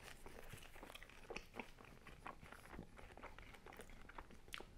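Faint chewing of crispy thin-crust pizza: a run of small crunches and mouth clicks, with one sharper crunch near the end.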